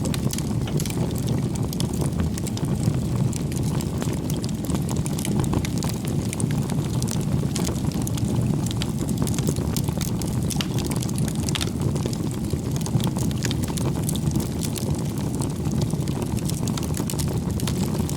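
Wood campfire burning: a steady low rush of flame with frequent small sharp crackles and pops from the burning firewood.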